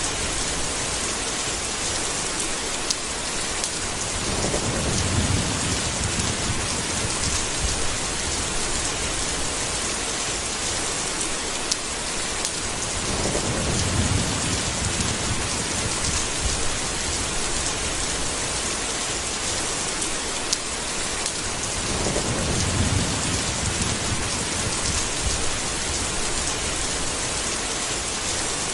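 Steady heavy rain hiss, with low thunder rumbling three times, each time swelling and fading over a few seconds. A few sharp ticks sound now and then.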